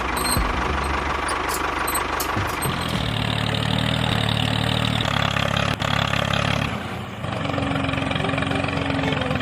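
Engine running steadily, its note changing about three seconds in and again about seven seconds in.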